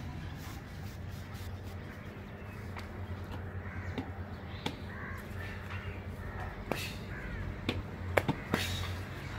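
Birds calling over a low steady hum, with a few sharp clicks or taps in the second half, the loudest pair a little after eight seconds in.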